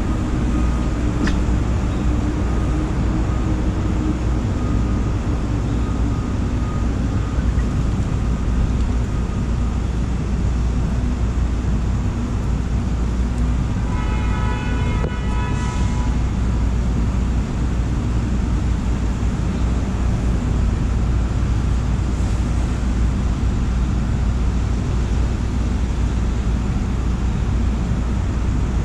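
New York City subway train running: a loud, steady rumble throughout, with a brief high pitched sound lasting about two seconds around the middle.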